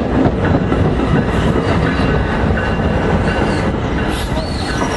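Commuter train running along the rails: a steady, loud rumble of wheels on track with some clatter.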